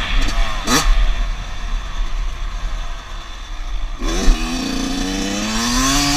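Small dirt bike engine revving: a quick sharp blip under a second in, a rougher, lower stretch, then a steady note that climbs in pitch over the last two seconds.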